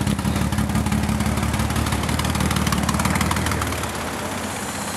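Mazda 626 engine idling with a fast puffing tick, the sign of an exhaust leak, while running on a Seafoam treatment. About three and a half seconds in, the deep rumble of the engine drops away and the running goes slightly quieter.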